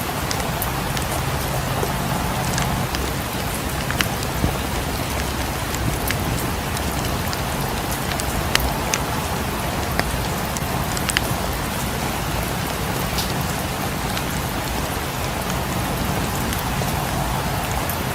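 Steady rain falling, mixed with a wood fire in a fireplace crackling in a few sharp, scattered pops.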